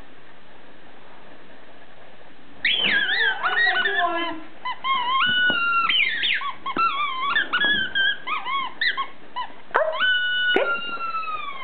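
Squeaky dog toy squeaking over and over as a beagle chews and squeezes it. The squeaks begin about two and a half seconds in as a rapid run of short, high squeals, and end with one longer squeal that slowly falls in pitch.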